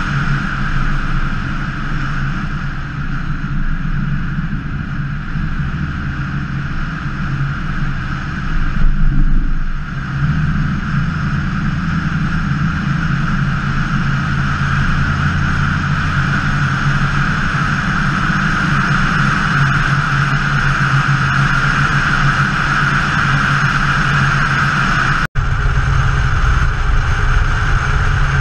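1968 Pontiac LeMans engine and exhaust running steadily at cruising speed, with wind rushing over the outside-mounted camera. The engine swells briefly about nine seconds in, and the sound drops out for a moment near the end.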